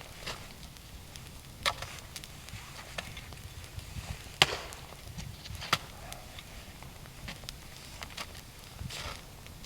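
Wood being chopped: about half a dozen sharp strikes at uneven intervals, the loudest about four and a half seconds in.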